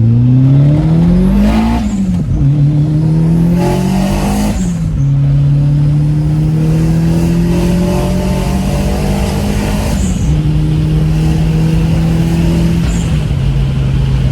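Big-turbo all-wheel-drive Audi A4 accelerating hard, heard from inside the cabin: the engine revs climb through the gears, with shifts about 2 and 5 seconds in. It then levels off and steps down about 10 and 13 seconds in, with a brief hiss at each gear change.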